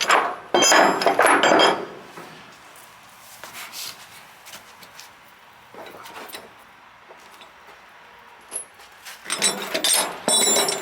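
Steel tie-down chains clanking and rattling as they are handled and hooked, in two loud bursts: one in the first two seconds and another near the end, with only faint knocks between.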